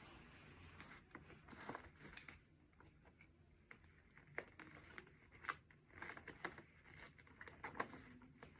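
Faint rustling and scattered small clicks and taps of items being handled by hand.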